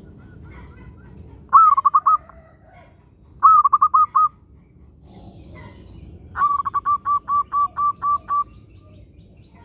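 Zebra dove (perkutut) cooing: three phrases of quick staccato coos, two short ones followed by a longer run of about eight notes in the second half.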